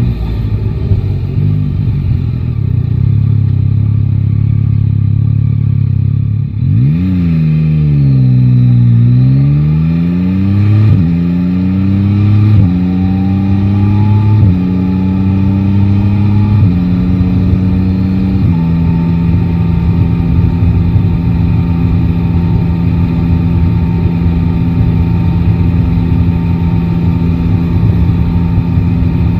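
Yamaha Tracer 9 GT's three-cylinder engine running low and steady, then pulling away about seven seconds in. It accelerates through the gears, its pitch rising and dropping back with each of about five upshifts, then runs at a steady cruise.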